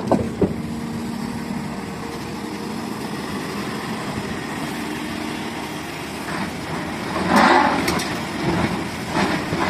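Excavator's engine running steadily at low revs, with a few clicks near the start and a louder rush of noise about seven seconds in that lasts under a second.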